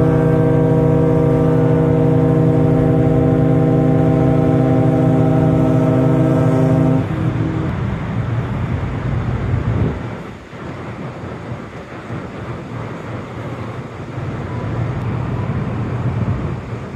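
A large car ferry's ship horn sounding one long, steady, deep blast of about seven seconds, the greeting signal given as sister ferries pass. After it stops comes wind noise on the microphone.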